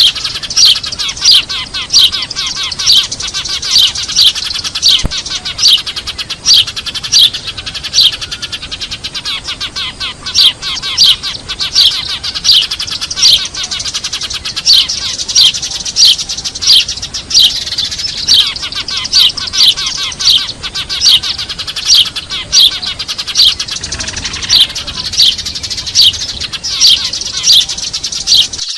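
A noisy flock of Eurasian tree sparrows chirping: loud, sharp chirps about one or two a second over a dense, continuous chatter. This is a sparrow lure call, played to draw wild sparrows in.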